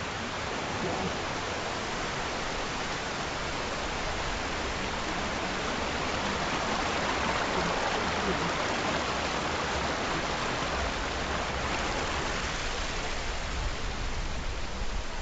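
Steady rush of falling water from Summerhill Force waterfall, an even, continuous noise that swells slightly midway.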